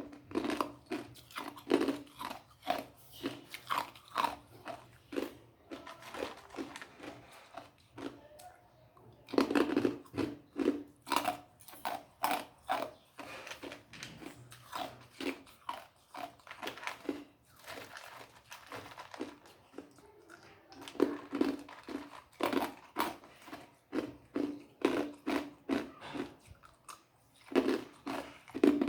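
Ice being crunched and chewed between the teeth: rapid crisp cracks in loud bouts, with quieter chewing in between.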